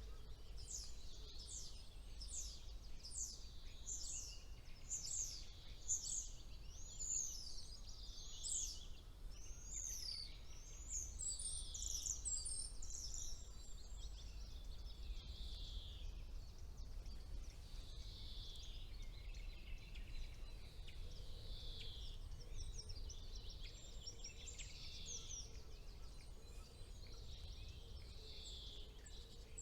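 Songbirds singing: a quick run of repeated high notes, each sliding downward, then softer and lower phrases, over a steady low rumble.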